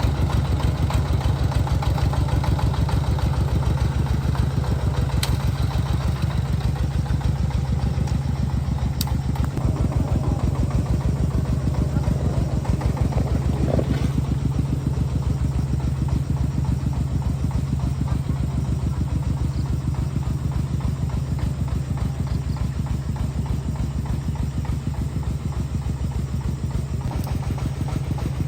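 Tractor engine running steadily close by, with a fast, even pulsing beat.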